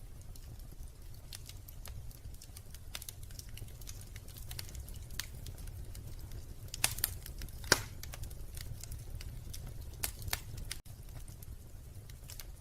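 Wood fire crackling in a fireplace: a steady low rumble under a running scatter of sharp pops and snaps, with a few louder pops about halfway through and again a little later.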